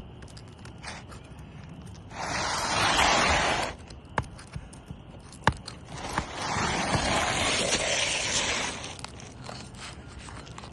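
A pry tool scraping against asphalt shingles as a high nail under the shingle is worked loose: two rasping scrapes, the first about a second and a half long and the second nearly three seconds, with a few sharp clicks between them.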